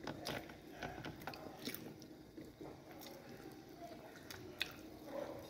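A person chewing a mouthful of food close to the microphone, with soft wet mouth clicks and smacks scattered through it.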